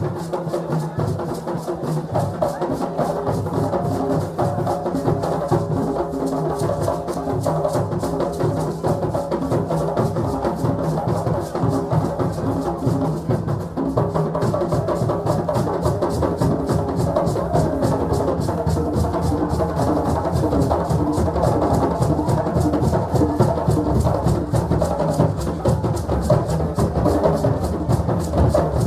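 West African celebration drumming: a group of drums playing a fast, dense, continuous rhythm, growing a little fuller and louder in the second half.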